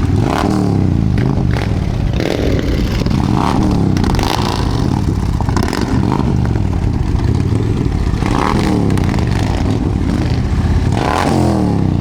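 Motorcycle engine being revved over and over, its pitch climbing and falling every second or two, with a few sharp cracks at the rev peaks.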